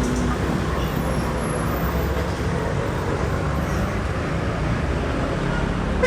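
Steady vehicle or traffic rumble, an even noise with no distinct events.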